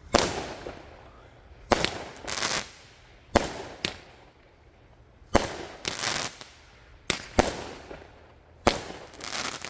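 200-gram consumer fireworks cake firing shot after shot, six times, about every one and a half to two seconds: each a sharp launch bang followed by a crackling, hissing break from its red-tail-to-brocade shells.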